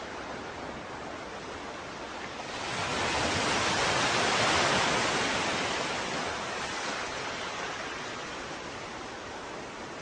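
Ocean waves on a shore: a steady wash of surf, with one wave swelling and breaking a few seconds in, then washing back down.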